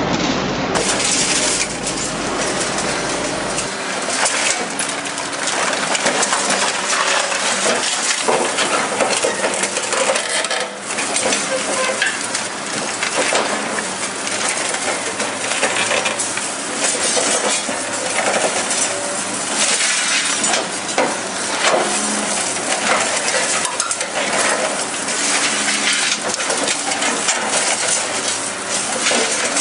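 Scrap metal from wrecked cars being crushed and broken up by a heavy machine: a continuous, dense clatter of metal clinks and crunches.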